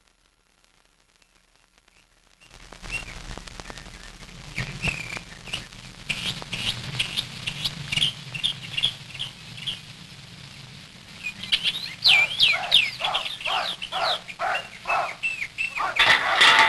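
Birds chirping and singing, many short repeated notes over a steady low hum, starting about two seconds in after near silence. The song grows busier and louder partway through, and a louder rushing noise comes in near the end.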